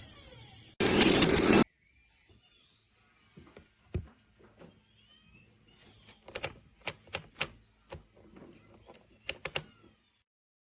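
An electric juicer's motor spins down with falling pitch. About a second in there is a short, loud burst of noise, then a run of light scattered clicks and knocks.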